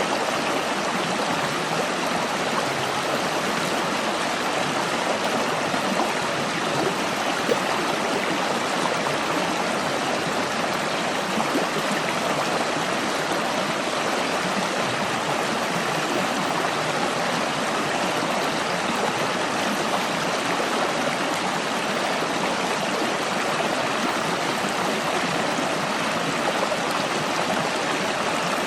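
Stream water flowing, a steady, even rush of running water.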